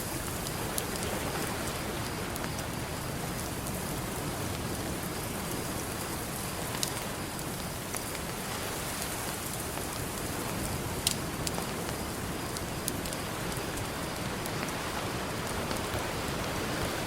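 Campfire crackling, with a few sharp pops (the loudest about 11 seconds in), over a steady wash of ocean surf.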